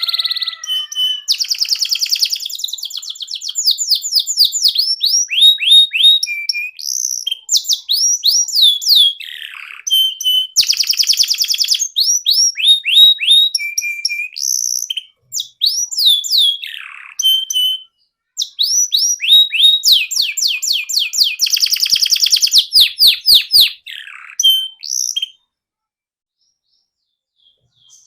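Canary singing a long, high-pitched song of fast trills and repeated falling notes, with two short breaks in the middle, stopping a few seconds before the end.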